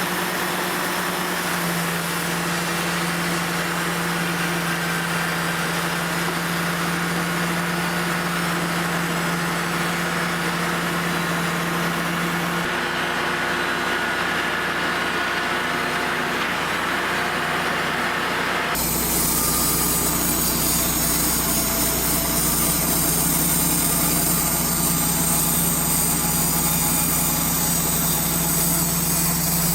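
Wood-Mizer LT35 portable band sawmill's engine running steadily. The sound changes abruptly about 13 and 19 seconds in.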